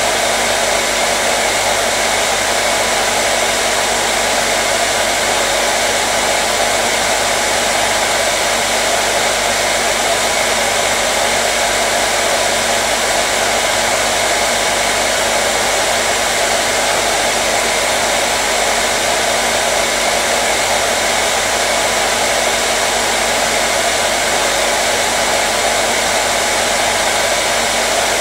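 Hair dryer running continuously at a steady pitch and level: a constant blowing rush with a faint motor hum beneath it.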